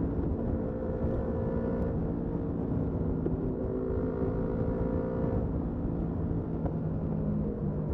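Motorcycle engine running steadily under way, with its note shifting slightly around the middle and again near the end.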